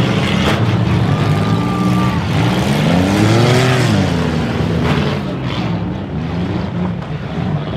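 Demolition derby car engines running hard, one revving up and back down about three seconds in. A high steady squeal lasts about a second early on, and a couple of sharp knocks of impact are heard.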